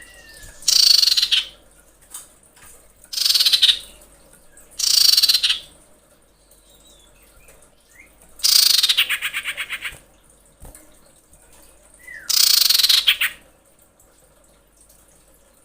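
Female common iora giving harsh, buzzy chattering calls in five separate bursts, the fourth a longer pulsing rattle. These are the calls of a female in breeding condition calling a male.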